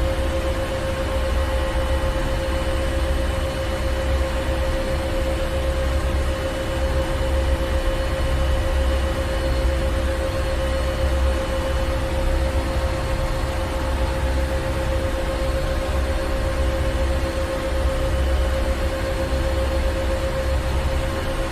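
Ship's engine room: running engines and machinery give a steady low rumble with a constant hum over a noisy haze, unchanging throughout.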